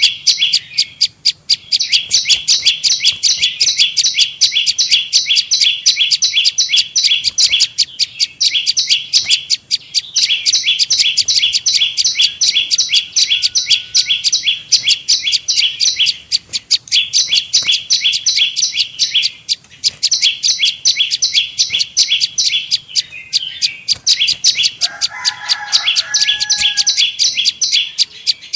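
Lure recording of a prenjak lumut (a small prinia-type warbler) calling: a long, fast, high-pitched run of sharp repeated chirps that keeps going with only brief pauses. Near the end a lower, drawn-out call from another bird sounds twice.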